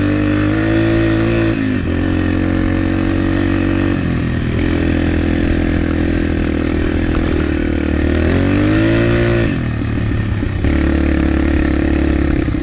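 Yamaha TT-R125 dirt bike engine running under way. Its pitch holds steady between shifts, dips briefly about two seconds in, then climbs steadily from about eight seconds in before dropping sharply.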